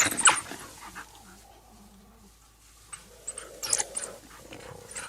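African wild dogs giving short, high-pitched squealing calls, one cluster at the start and another about three and a half seconds in, with a quieter stretch between. The calls are made while a hyena presses in on their kill.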